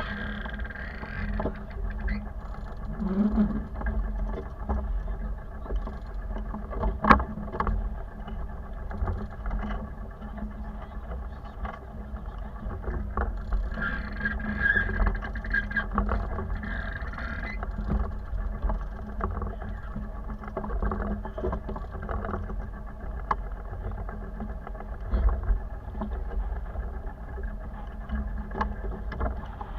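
A sailboat under way: water sloshing against the hull and a steady low wind rumble on the microphone, with a sharp knock about seven seconds in.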